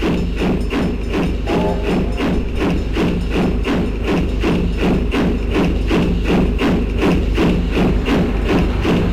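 Steam locomotive working hard, its exhaust beating quickly and evenly at about four beats a second over a steady low rumble.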